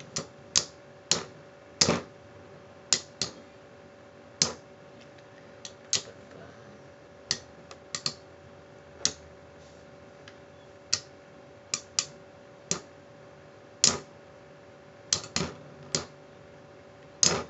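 Metal Beyblade spinning tops, Pirate Kraken and Lightning L-Drago, clashing in battle: sharp, irregular clicks about once a second, some coming in quick clusters of two or three.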